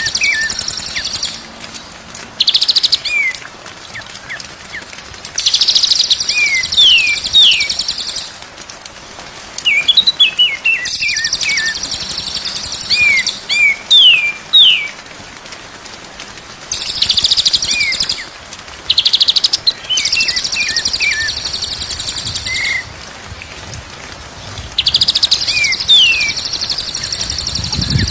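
White-rumped shama (murai batu) singing in repeated phrases: quick downward-sliding whistles alternating with harsh, buzzy rattling bursts, with short pauses between phrases.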